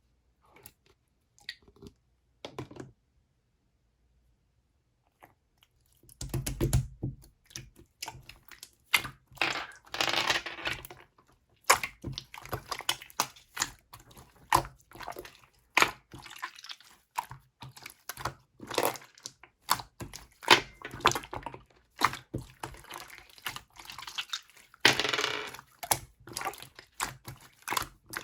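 Slime being squished, stretched and pressed by hand, giving wet squelching, crackling and popping clicks. It starts with a few faint clicks, then becomes dense and continuous about six seconds in.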